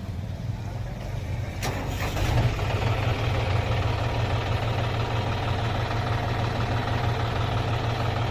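Tractor engine running steadily, with a sharp clank about a second and a half in, after which the engine runs louder.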